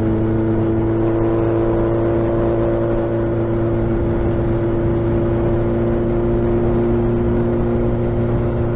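Suzuki Hayabusa's inline-four engine and exhaust running at a steady pitch while cruising, with wind and road noise beneath.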